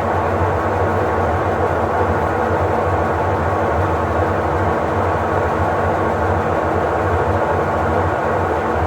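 Electrolux LTE08 top-loading washing machine running: a loud, even mechanical rumble with a constant motor hum, unbroken throughout.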